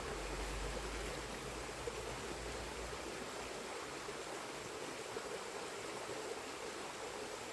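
Small river flowing steadily over its bed, an even rushing of water with a low rumble underneath during the first few seconds.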